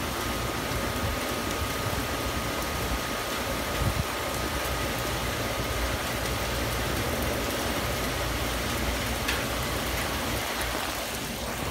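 Heavy rain pouring down steadily, an even hiss of rainfall.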